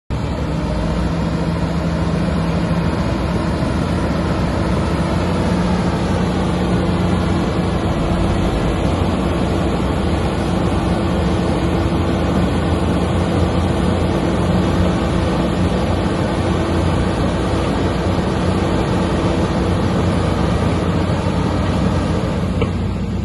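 Bulldozer's heavy diesel engine running steadily under working load, its pitch shifting a little, easing off slightly near the end.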